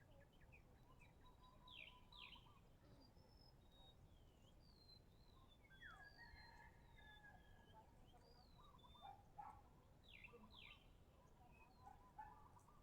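Faint birdsong: several small birds chirping and calling over a low background hiss, with quick downward-sliding calls about two seconds in and again near the end.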